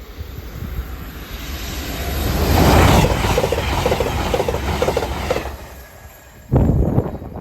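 Passenger train passing at speed. Its rush of noise builds over the first few seconds, then comes a quick clatter of wheels over rail joints before it fades. Near the end there is a brief, loud, separate rush of noise.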